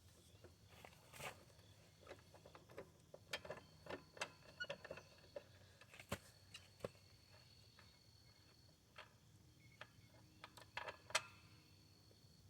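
Faint, irregular light clicks and metallic clinks of hand tools working bolts on a lawn mower, the sharpest about eleven seconds in, over a low steady hum.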